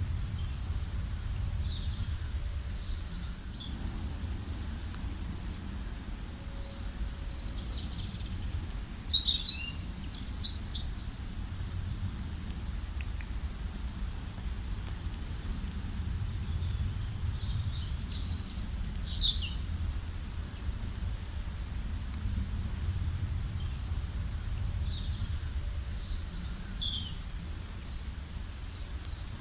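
Songbirds chirping and singing in short bouts of quick high notes, with the loudest bouts about 3, 10, 18 and 26 seconds in, over a steady low rumble.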